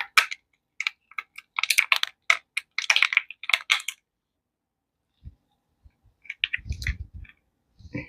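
Hands working with resin-crafting materials: a quick, irregular run of small clicks and taps for about four seconds, then a pause, a few softer taps and a short low rumble near the end.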